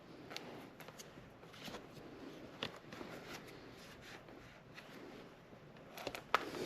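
Faint handling sounds: light scattered clicks and rustles, with a few sharper clicks near the end.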